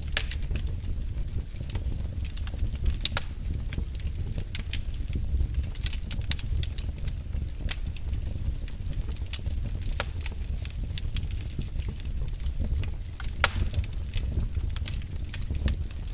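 Wood fire burning in a fireplace, crackling with irregular sharp pops over a steady low rumble of the flames; one louder pop comes about thirteen seconds in.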